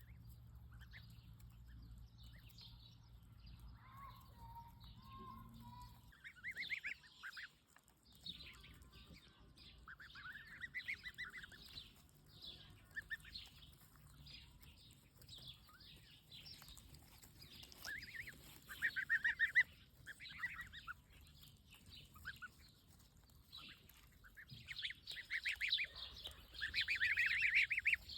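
Domestic geese honking in repeated short calls among other farmyard poultry, the calls growing louder and more frequent near the end.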